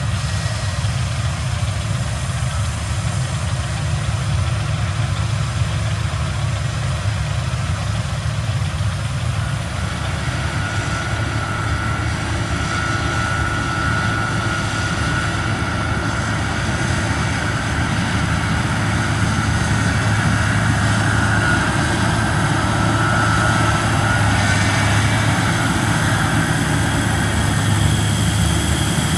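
Heavy harvest machinery running steadily with a low engine rumble. A high, steady whine comes in about a third of the way through and fades near the end.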